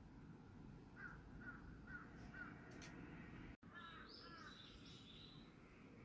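Crow cawing faintly at a distance: a series of four short caws about half a second apart, then after a brief pause two more caws, with a higher-pitched chirping of another bird overlapping them.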